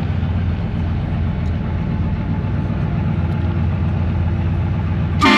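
A vehicle engine running steadily with a deep, low rumble. Right at the end, a short, loud horn blast cuts in.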